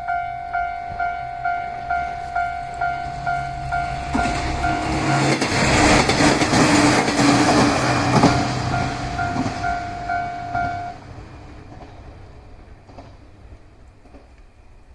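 Railway level-crossing warning bell dinging about two and a half times a second as the diesel limited express Muroto runs over the crossing. The train's engine and wheel noise swells about four seconds in, is loudest around six to eight seconds, then fades. The bell stops abruptly about eleven seconds in, once the train has cleared the crossing.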